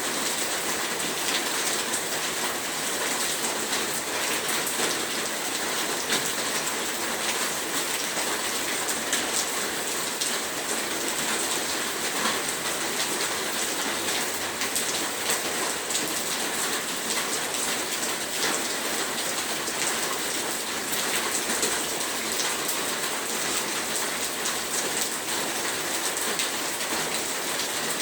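Steady heavy rain: an even rush of downpour with dense patter of drops hitting surfaces.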